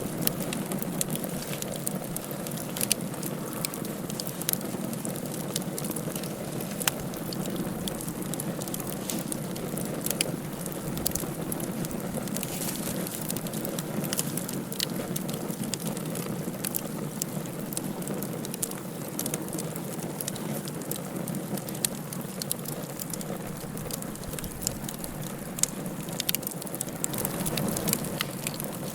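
Fire burning in a fireplace: a steady hiss with many irregular crackles and pops.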